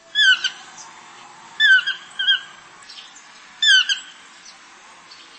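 A bird squawking: short, shrill calls that bend downward, three strong ones about a second and a half to two seconds apart, with a fainter one just after the second.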